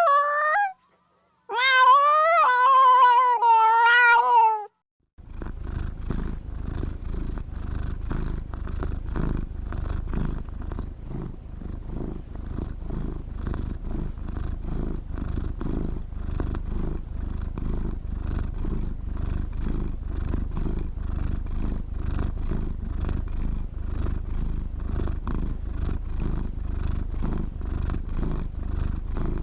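Domestic cat meowing, one short meow and then a longer wavering one, followed from about five seconds in by steady, continuous purring.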